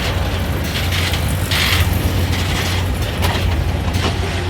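Amusement ride machinery running, with a steady low hum and mechanical rattling.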